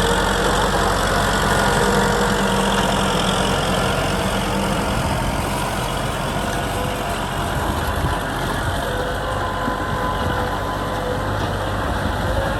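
Kubota M6040 SU tractor's diesel engine running steadily.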